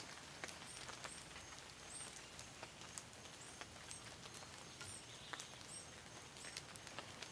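Faint, quiet handling sounds: soft clicks of canned biscuit dough being kneaded and pressed together by hand. A faint high chirp repeats about once a second in the background.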